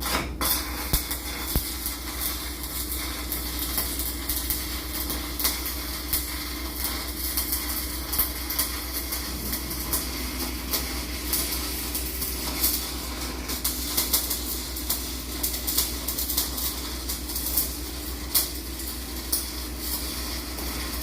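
Welding arc crackling and spitting steadily as nuts are welded onto the ends of bolts, full of sharp irregular pops. A steady low machinery hum runs underneath.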